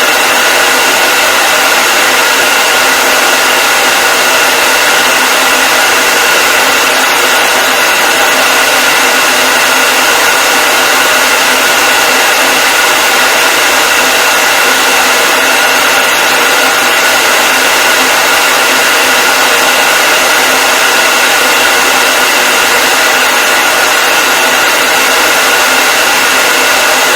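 Hair dryer blowing continuously, an even airy hiss with a steady motor whine on top.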